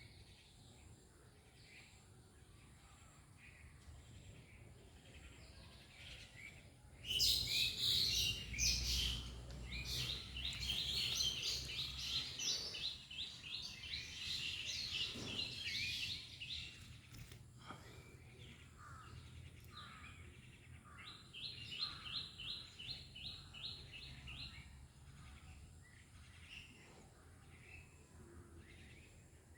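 Small birds chirping: after a quiet start, a loud burst of rapid, crowded chirping that lasts about ten seconds, then a second run of quick repeated chirps later on, with a low rumble under the start of the loud burst.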